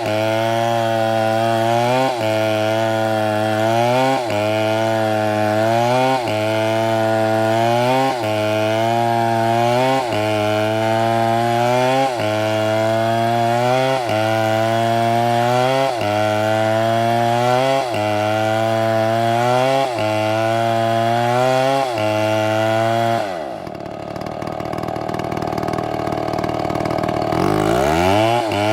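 Two-stroke chainsaw running at high revs under cutting load, its pitch sagging and recovering in an even cycle about every two seconds. About 23 s in the engine falls away sharply, then revs back up near the end.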